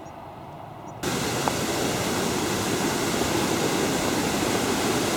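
Steady rushing of a waterfall or stream. It cuts in suddenly about a second in, after a quieter moment.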